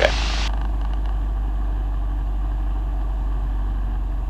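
Single-engine light aircraft's piston engine droning steadily, heard inside the cabin during the landing approach. A brief hiss cuts off about half a second in.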